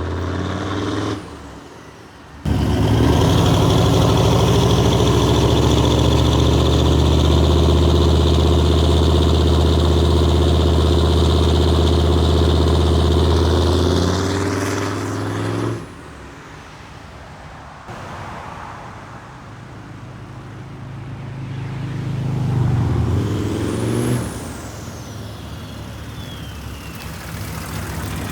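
6.5 turbo-diesel V8 truck engine driven hard, held loud at high revs for about thirteen seconds before dropping off. It then builds again with a whistle that rises and falls, peaking a few seconds before the end.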